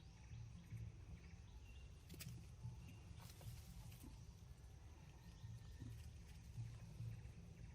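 Faint outdoor ambience: a steady low rumble, a couple of faint clicks and scattered short high chirps.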